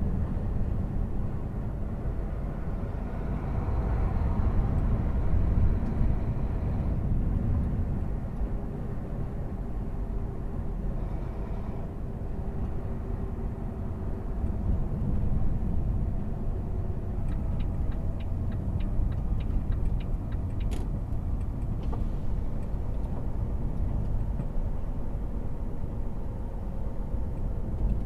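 A semi truck's engine running steadily, with a deep rumble heard from inside the cab. About two-thirds of the way through there is a short run of quick ticks, then a single sharp click.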